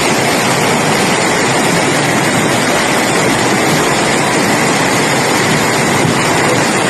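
Loud, steady rushing of floodwater, an even roar with no breaks.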